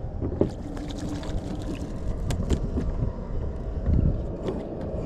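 Wind rumbling on the microphone out on the water, with scattered clicks and knocks from handling the hooked bird and fishing gear, most of them in the first three seconds.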